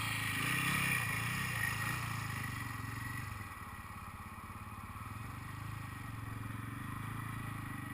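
Sidecarcross outfits' motorcycle engines running, the pitch rising and falling in the first couple of seconds, then settling steadier and a little quieter.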